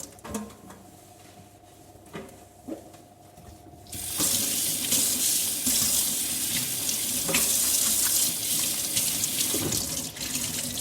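A tap running hard into a sink, turned on about four seconds in and running steadily from then on, after a few light knocks.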